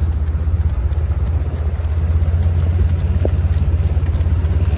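A vehicle engine running steadily at low speed: a deep, continuous rumble with rapid, even pulses.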